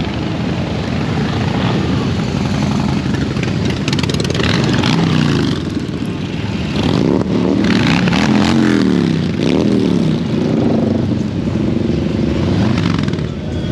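Motorcycle engine revving, its pitch rising and falling several times in quick swells, loudest in the second half.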